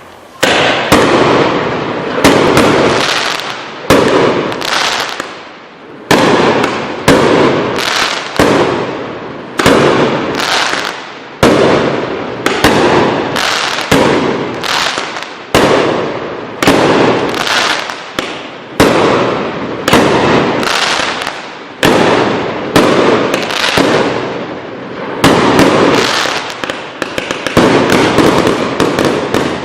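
A 64-shot consumer fireworks cake firing shot after shot, about one report a second, each sharp bang trailing off in a fading noisy tail before the next.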